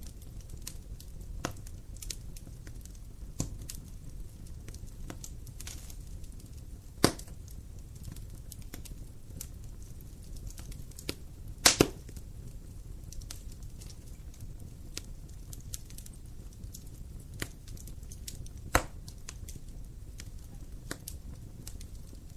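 Wood fire crackling over a low steady rumble, with irregular small pops and a few loud sharp snaps, the loudest about halfway through.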